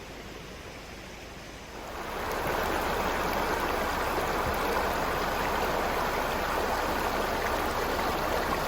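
Creek water flowing steadily, getting louder about two seconds in and then holding even.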